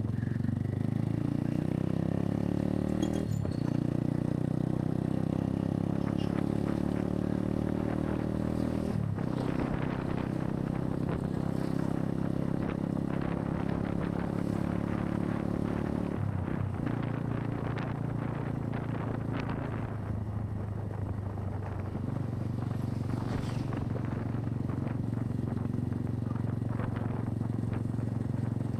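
Motorcycle engine running under way, heard from the rider's own bike, with its note breaking and changing pitch three times. Wind and road noise sit under it.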